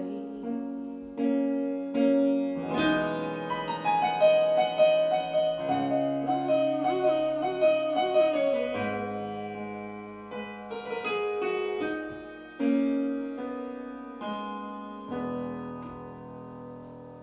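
Piano playing the instrumental outro of a song, with chords struck and left ringing; the playing slowly dies away toward the end.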